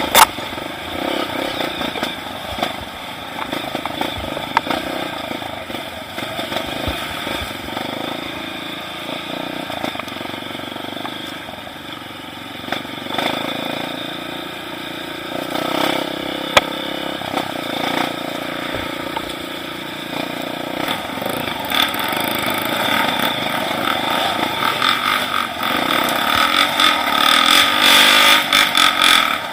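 Trail motorcycle engine running, getting louder over the last several seconds.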